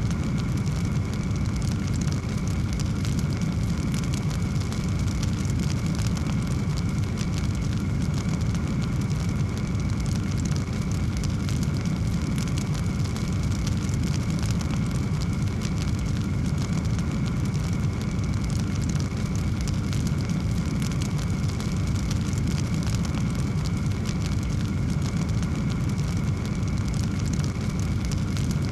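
Wood fire burning in a fireplace: a steady low rumble of flames with frequent small crackles throughout.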